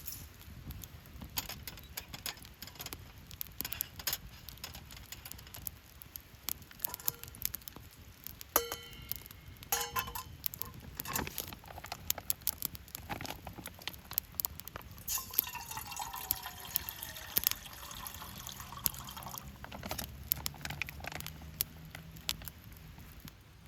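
Cooking gear being handled with many small clicks and clinks, a ringing clink about nine seconds in, and liquid being poured into a pot or container around the middle.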